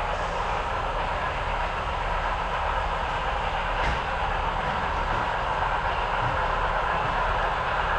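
HO scale model train running along the layout track: a steady rolling rattle of wheels on rail, with one faint click about four seconds in.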